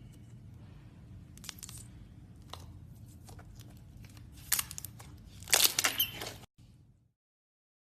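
Slime being squished and handled, giving scattered crackling clicks and pops, with the loudest run of crackles about five and a half seconds in. The sound cuts off suddenly about a second later.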